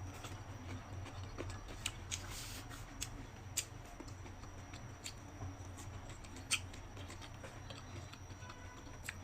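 Close-miked eating sounds: quiet chewing with sparse sharp mouth clicks and smacks, two louder clicks about three and a half and six and a half seconds in, over a steady low hum.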